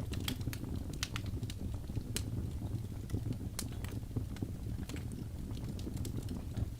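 Logs burning in a fireplace: a steady low rumble of flames with irregular sharp crackles and pops, several a second.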